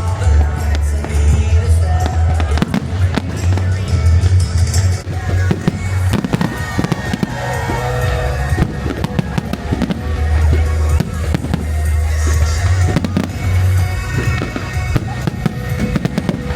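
Fireworks bursting and crackling in rapid, irregular bangs, over music with a heavy, steady bass.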